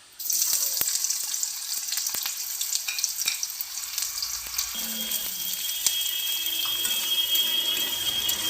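Chopped onion dropped into hot oil in a kadai, bursting into a loud, steady sizzle at once with constant crackling as it starts to fry.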